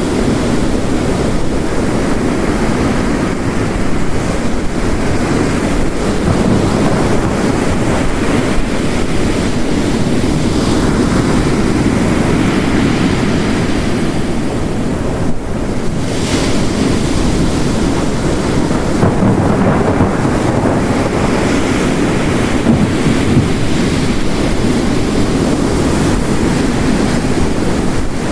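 Ocean surf crashing on a beach, layered with heavy rain: a continuous rushing noise with slow swells as waves break, and no distinct thunder strikes.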